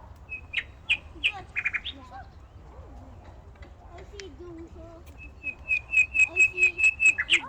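Birds calling: scattered sharp chirps, then a fast, even run of about a dozen sharp squawking calls in the last couple of seconds.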